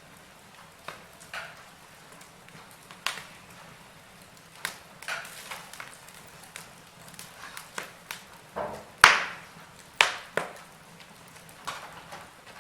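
Fire in a fireplace crackling, with irregular sharp pops over a faint steady hiss; the loudest pop comes about nine seconds in, followed by a few more in quick succession.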